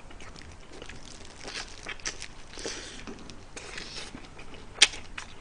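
Close-miked chewing and mouth sounds of a man eating spicy sauced Korean fried chicken, soft and irregular, with a single sharp click near the end.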